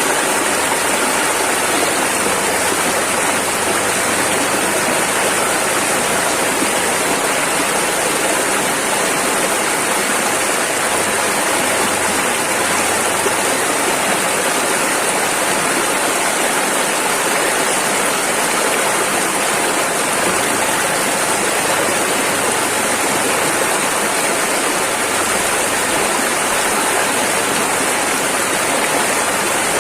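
Rushing river water, a steady loud rush with no break or change.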